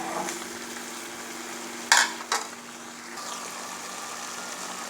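Marinated chicken frying in onion-tomato masala in a pan, a steady sizzle. A spoon knocks against the pan twice about two seconds in as it is stirred.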